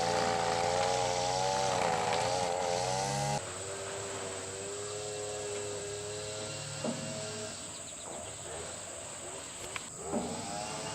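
Ford 600 tractor engine running at a steady idle, an even, slightly wavering hum. About a third of the way in the sound cuts suddenly to a quieter level and runs on steadily, with a few short clicks near the end.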